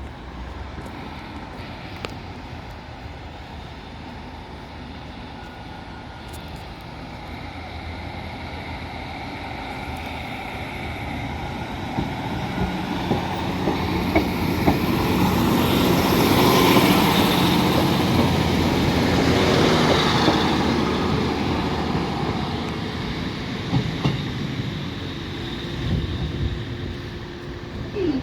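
Passenger train running on the rails, heard from on board: a steady rumble of wheels and running gear that builds to a peak a little past halfway, then eases off.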